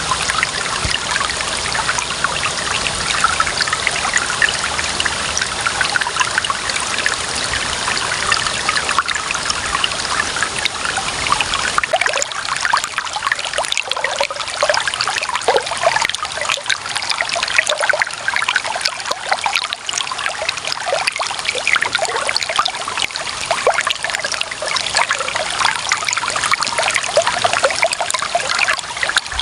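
Clear running water trickling and gurgling, a steady splashy flow with many small bubbling splashes. The low rumble under it drops away about twelve seconds in.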